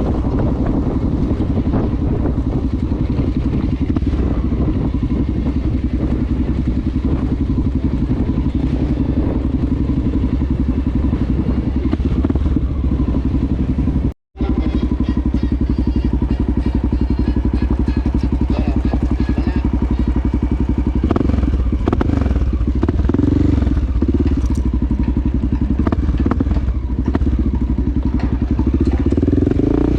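Honda XR650L single-cylinder four-stroke dirt bike engine running while riding, cutting out for an instant about 14 seconds in, then rising and falling in revs from about 21 seconds on.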